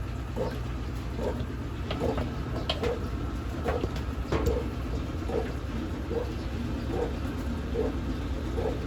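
Brastemp Ative 11 kg (BWL11) washing machine washing a load: a steady low motor hum with a short swish repeating about every 0.8 s, and a few light knocks around the middle.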